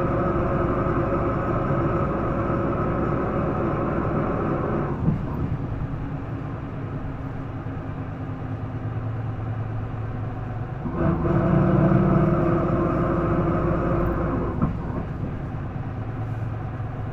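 Isuzu Erga bus's inline-six turbodiesel heard from inside the cabin, pulling under load with a strong hum. It eases off about five seconds in, pulls hard again a little past the middle, and eases off once more near the end.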